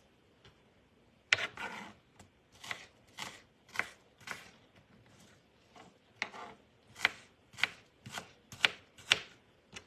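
Kitchen knife chopping an onion on a cutting board, in a steady run of sharp cuts about two a second, starting about a second in.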